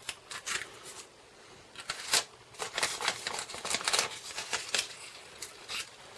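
Paper being handled: rustling with a run of small clicks and snips, thickest in the middle, as a sticky Post-it paper mask is worked for stamping.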